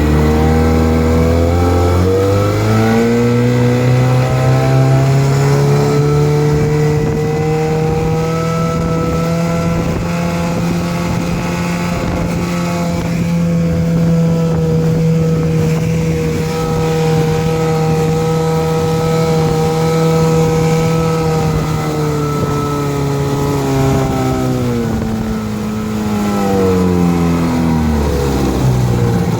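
Mercury 110 9.8 hp two-stroke outboard motor running in forward gear under way. It speeds up over the first few seconds, runs at a steady pitch for most of the time, then slows back down near the end.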